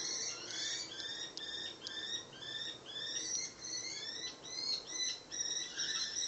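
Kestrels calling in a rapid series of short, shrill, downward-sliding notes, about three a second, played from a nature documentary on a television.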